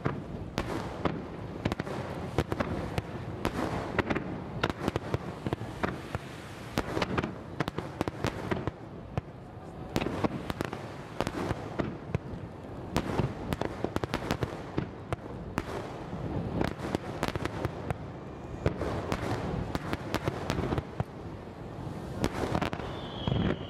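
Fireworks display: aerial shells bursting in a rapid, dense barrage, a continuous run of sharp bangs and pops close together with no pause.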